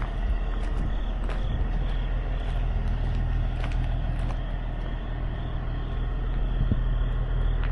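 A semi truck's engine running steadily nearby: a low, even rumble with a few faint clicks.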